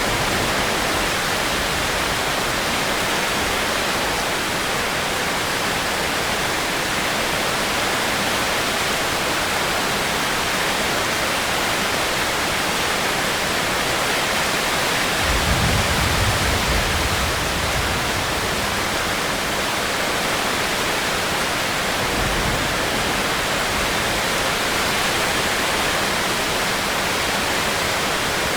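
Steady rain falling as an even hiss. A brief low rumble comes about halfway through, and a shorter one a few seconds later.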